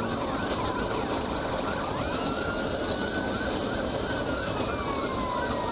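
Police car siren in a fast yelp, a quick rise-and-fall repeating evenly, over steady vehicle engine and road noise. A slower tone glides downward from about four seconds in.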